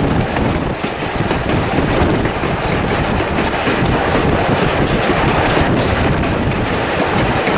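Wooden passenger carriages of a steam-hauled train running at speed, heard from an open carriage window: a steady rumble of wheels on the rails with wind rushing past, and a single sharp click about three seconds in.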